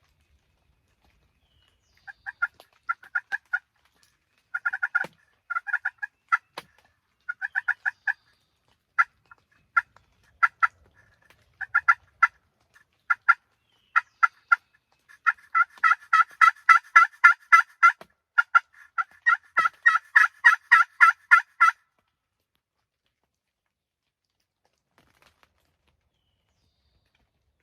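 Hen turkey yelps: short notes in small groups at first, then a fast run of yelps at about five a second for the last six seconds before they stop abruptly.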